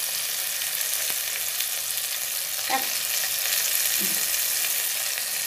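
Onions, tomato and green chillies frying in oil in a kadai: a steady sizzle, with a steel spatula scraping the pan briefly a couple of times.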